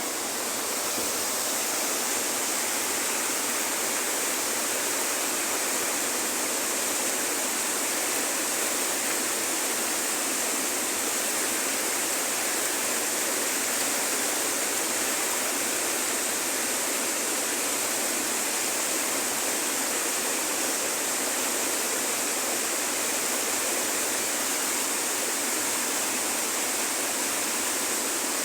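Tropical jungle river rushing: a steady, unbroken hiss of flowing water.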